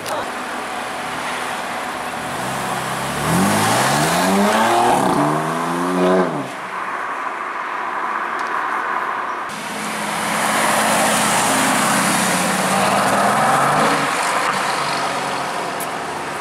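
Supercar engine accelerating hard past, its pitch climbing steeply from about three seconds in, with a brief drop partway through the climb. About ten seconds in, another car drives past, the sound swelling and fading over a few seconds.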